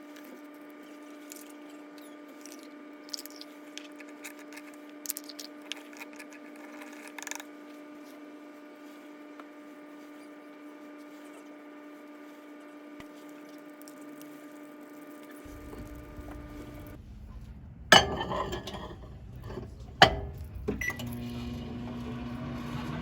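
Microwave oven running with a steady hum and a few light clicks. The hum stops about 17 seconds in, two loud knocks follow, and another steady hum starts near the end.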